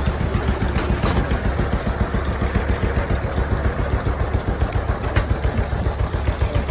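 Tractor engine running steadily with a low, pulsing rumble, with scattered light clicks and rattles over it.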